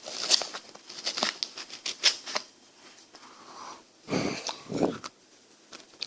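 Ice cream's plastic wrapper crinkling and tearing in a few sharp crackles, followed by two duller, lower sounds about four seconds in.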